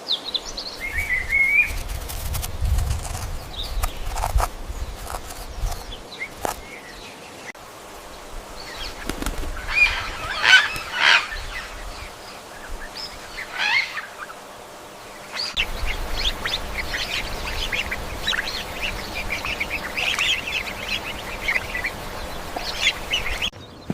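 Farm birds calling, with wings flapping, across several short clips joined by abrupt cuts; a low rumble sits under some of the clips.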